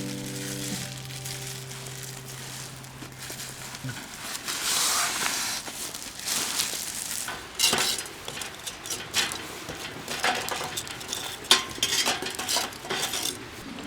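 Food sizzling in a pan, with metal utensils clicking and clinking against it. Held musical notes fade out over the first few seconds.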